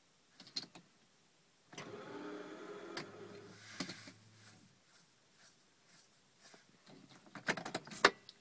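Car starter motor cranking for about three seconds without the engine catching, with a couple of clicks before it and a cluster of sharp clicks and knocks near the end.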